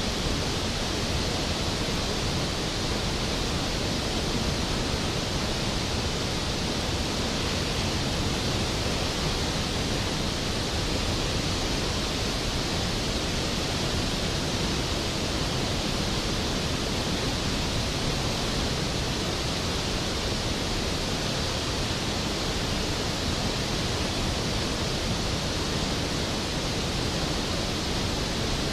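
Skógafoss waterfall: a steady, even roar of heavy falling water.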